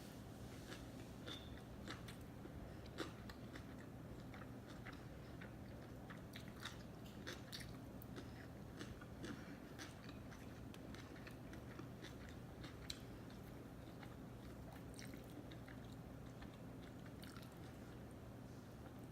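Close-miked chewing of sushi: soft, wet mouth clicks and smacks, frequent at first and thinning out near the end, over a faint steady low hum.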